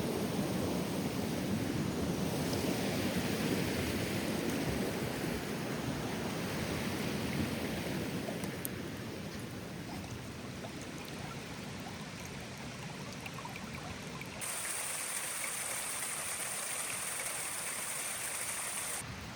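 A mountain river rushing steadily, a full low rush that eases off about halfway through. From about fourteen and a half seconds a brighter hiss comes in suddenly and cuts off just before the end.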